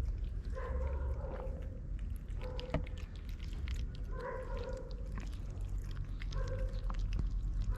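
A cat meowing repeatedly, about four short meows spaced a couple of seconds apart, over a steady low rumble with small clicks.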